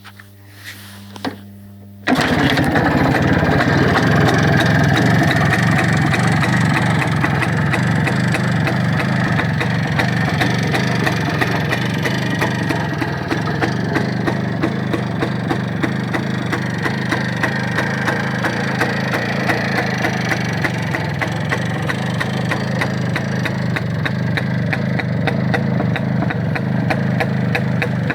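Izh-56 motorcycle's single-cylinder two-stroke engine catching about two seconds in, after a low hum and a couple of clicks, then running steadily at idle with an even, rapid beat.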